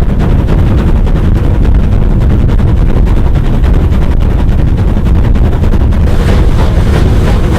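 Steam locomotive working hard close by, a rapid run of sharp exhaust beats over heavy rumble, with wind buffeting the microphone.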